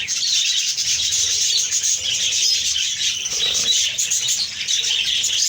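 A flock of parrots chattering and calling, many short overlapping calls going on steadily.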